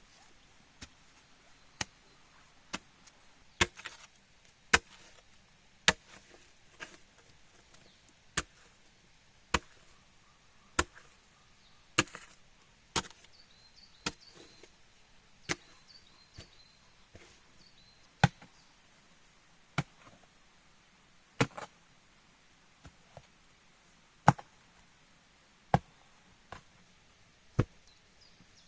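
Wood being chopped: sharp single blows about once a second, some much harder than others.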